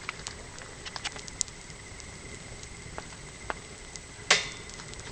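Wood campfire crackling, with scattered small snaps and one loud sharp pop about four seconds in.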